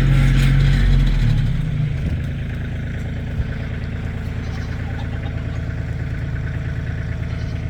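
Kioti CK2610 compact tractor's diesel engine running under load for the first second or two, then easing to a steady lower speed for the rest.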